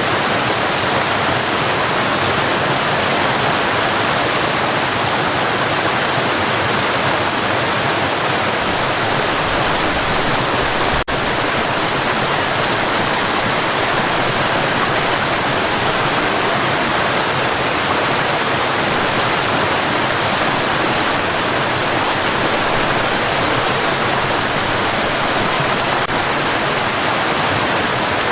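Steady white noise, an even hiss across the whole range, with one brief dip and click about eleven seconds in.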